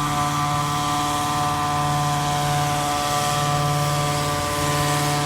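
Mosquito-control fogging truck's sprayer running close by: a steady engine-and-blower drone, several held tones over a hiss.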